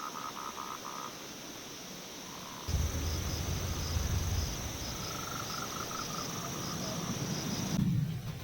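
Night chorus of insects trilling steadily at a high pitch, with a frog giving a run of short pulsed calls near the start and again a few seconds later. About three seconds in a low rumble joins.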